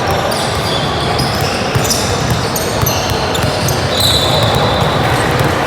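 Basketball game sounds in a gym: the ball bouncing on the court and short, high squeaks over a steady crowd hubbub echoing in the hall.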